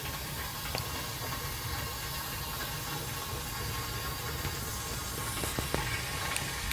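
Wood fire burning in a homemade wood stove set up for a downdraft burn, with a steady rushing draft and a few sharp crackles from the wood.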